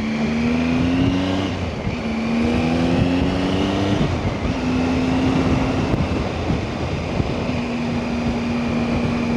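Motorbike engine pulling up through the gears under way. Its pitch rises and drops at gear changes about a second and a half in and again about four seconds in, then it holds steady, with wind rushing over the microphone.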